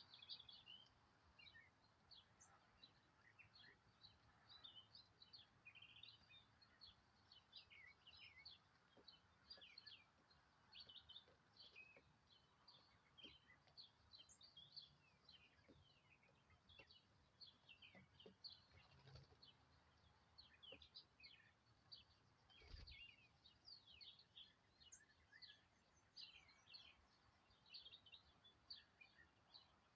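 Faint, continuous chirping of small birds: many short, quick high calls overlapping throughout. There is one dull low thump about 23 seconds in.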